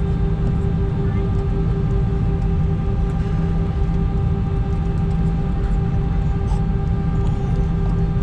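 Steady drone inside an Airbus A320's cabin: engine and airflow noise with a constant hum held at one pitch.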